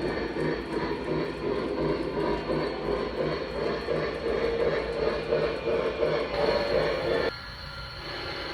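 Lionel Legacy O gauge Blue Comet model train running on track: a steady rolling, mechanical noise with a regular low pulse about every 0.7 seconds. The sound drops away suddenly near the end.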